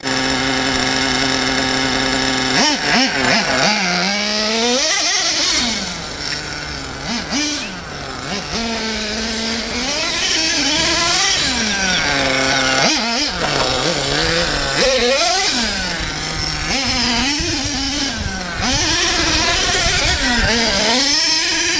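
Small nitro engine of a 1/8-scale Earthquake 3.5 4x4 RC monster truck, running steadily at idle for about two and a half seconds, then revving up and down again and again as the truck is driven.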